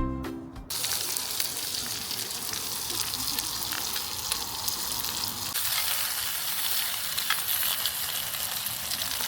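Food frying in a pan: a steady sizzle full of fine crackles. It starts as background music cuts off, just under a second in.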